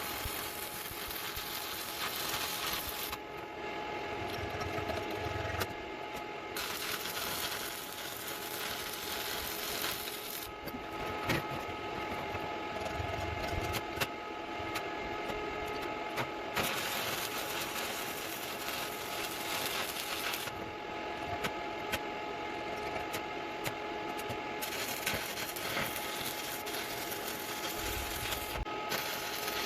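Stick (shielded metal arc) welding, played back sped up: a continuous crackling, buzzing arc hiss. The top of the hiss falls away in several stretches a few seconds long, where the arc breaks or the footage jumps.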